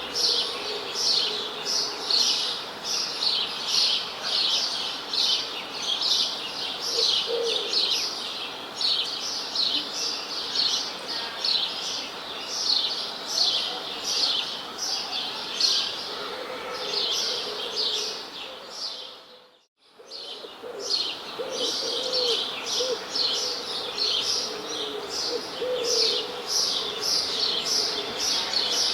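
A chorus of small birds chirping, quick bright chirps several a second, with a few lower calls now and then. About two-thirds of the way through, the sound fades out briefly and fades back in, as at a loop join.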